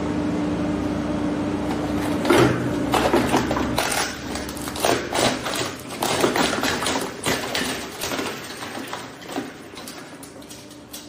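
Shredder motor starting up with a steady hum, then from about two seconds in the hard plastic of a Super Soaker water gun cracking and crunching irregularly as the shredder chews it, thinning out toward the end.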